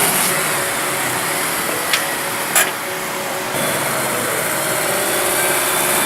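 Car engines running steadily at a car meet, with two short sharp clicks about two seconds in.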